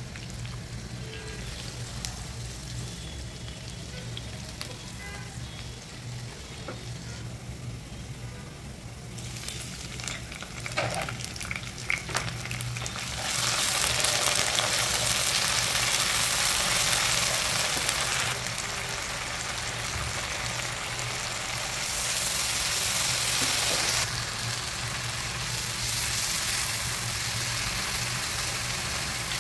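Food frying in hot oil in a non-stick wok, with a spatula stirring and scraping. The sizzling is faint with a few clicks at first, then becomes a loud, steady hiss about halfway through.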